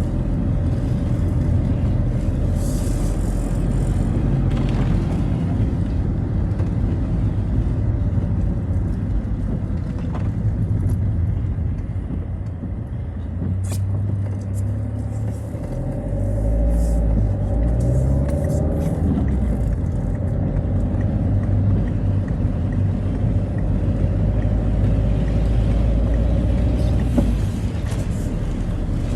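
Citroën Xsara driving, heard from inside the car: steady engine and road rumble, with the engine pitch rising as it accelerates about halfway through.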